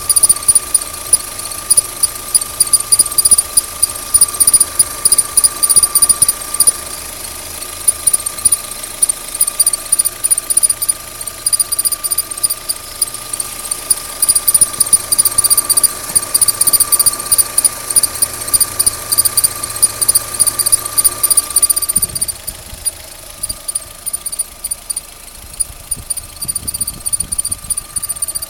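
Opel Z16XEP 1.6-litre four-cylinder petrol engine idling with a steady high-pitched whistle and a fast, light ticking over it. The whistle is suspected to come from the accessory belt or the water pump, cause unclear. The lower engine sound drops away about three-quarters of the way through while the whistle continues.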